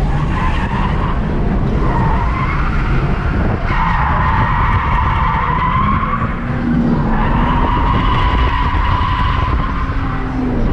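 A car drifting: its tyres squeal in long screeches, strongest from about four seconds in and again after seven seconds, over the engine's running note.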